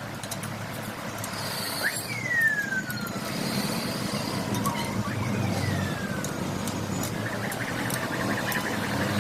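Steady rumble of passing motor traffic, with two falling whistle-like tones about three and a half seconds apart and a few light clicks.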